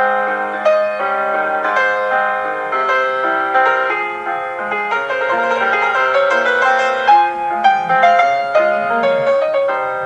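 Classical piano music: a flowing melody of many notes over a low held bass note that gives way to moving bass lines about three seconds in.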